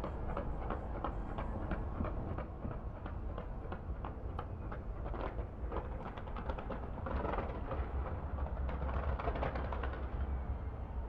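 Fireworks going off: a rapid, irregular string of sharp bangs and crackles over a steady low rumble, densest a few seconds before the end.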